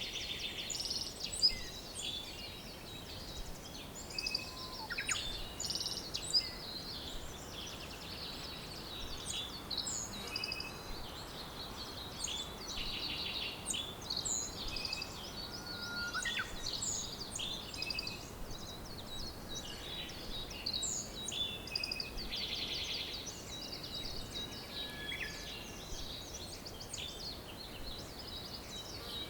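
Several songbirds chirping and trilling, overlapping, with short calls, quick downward-sweeping notes and rapid trills, over a steady background hiss.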